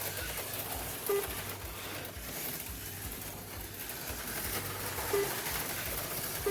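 HO-scale slot cars racing around the track: a steady buzzing whir of the little motors and pickups on the rails, with a low hum underneath and two short beeps.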